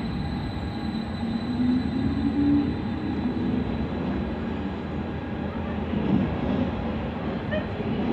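Stadler FLIRT electric multiple unit moving past at close range: a steady rumble of wheels on rail with a low electric motor whine that rises in pitch about two seconds in.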